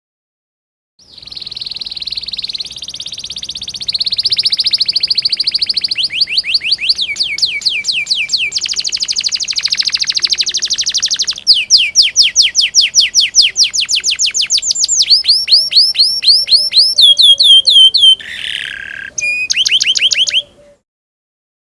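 Domestic canary singing a long song: fast rolling trills and runs of rapid, repeated down-sweeping chirps, with a brief harsher note near the end. The song starts about a second in and cuts off abruptly shortly before the end.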